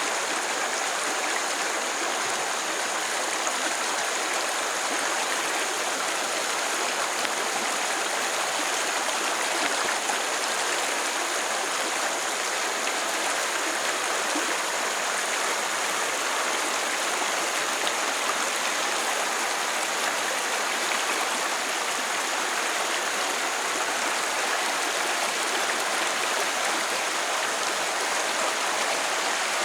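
Stream water running with a steady, even rush that does not change, a thin steady high-pitched hiss lying over it.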